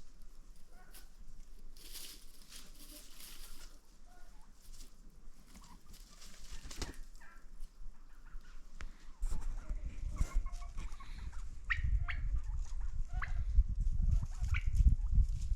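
Chickens calling with many short clucks. About two-thirds of the way in a low rumble joins and is the loudest sound from then on.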